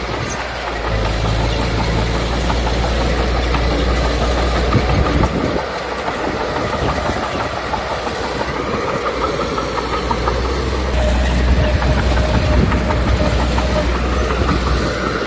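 Small Komatsu D21P crawler bulldozer working: its diesel engine running, with the clatter of steel tracks and pushed stone. The engine note rises under load twice, with a lull about six seconds in.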